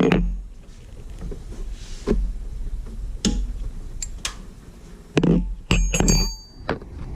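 Metal hand tools clinking and knocking, a handful of separate knocks with a cluster of ringing metallic clinks about six seconds in.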